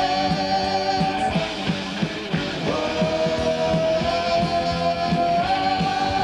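Heavy metal band playing: drums keep a steady beat under long held, wavering high notes, with a pitch dip and a new held note a little under halfway through.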